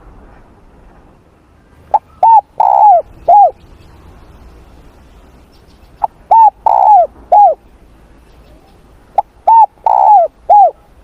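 Spotted dove cooing: three repeated coo phrases about four seconds apart, each a short note, a longer rough note, then a falling note.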